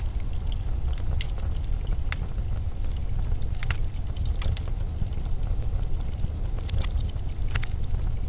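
Blizzard wind as a steady deep rumble, with irregular sharp crackles scattered over it.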